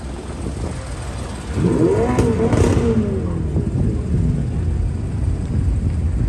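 A sports car's engine revs once, about a second and a half in, its pitch rising and falling back, then keeps up a low rumble as the cars roll slowly.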